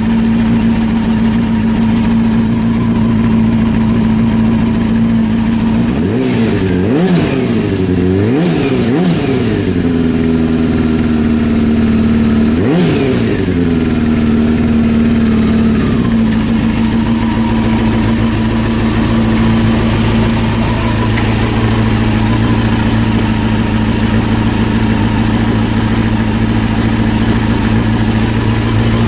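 Freshly rebuilt Honda CB400 four-cylinder engine idling, blipped up and back down in revs three times between about six and fourteen seconds in, then settling to a steady idle. Its muffler note is a little higher and bigger than a standard one.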